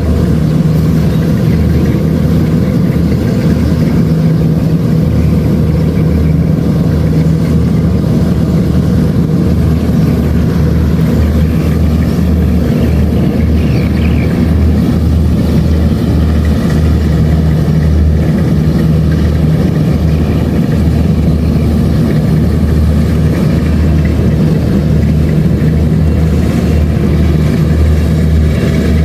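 Kubota DC-70 Plus combine harvester running steadily, its diesel engine a loud, even drone throughout.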